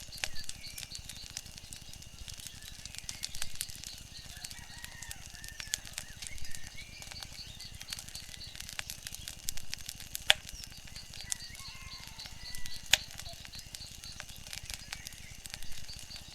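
Wood fire crackling with frequent sharp pops and snaps, two louder pops about ten and thirteen seconds in, over a steady low rumble. Faint wavering high chirps and whistles run through it.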